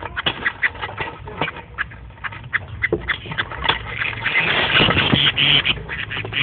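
A flock of small cage birds, canaries and Bengalese finches, chirping and calling in an aviary: many short, quick chirps that thicken into a louder, continuous chatter about four seconds in.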